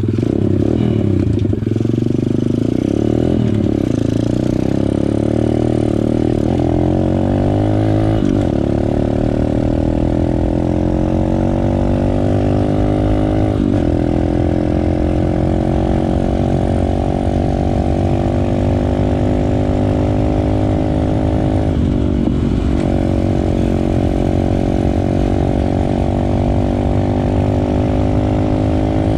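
150cc Motoworks Bigfoot pit bike's single-cylinder four-stroke engine at full throttle. Its note climbs, dips briefly at each of several gear changes, then holds high and steady at top speed for the last several seconds.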